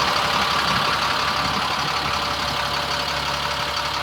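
Caterpillar 7.2-litre inline-six diesel in a GMC C6500 truck idling steadily at lowered idle.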